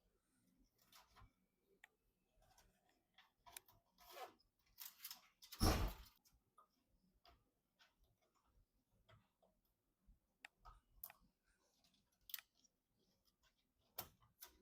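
Faint handling sounds of computer parts being assembled: scattered light clicks and ticks, with one louder rustle about six seconds in.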